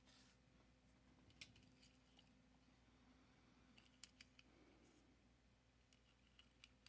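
Near silence with a few faint, sharp clicks and taps, the sound of a small die-cast toy truck being handled and turned over in the hands.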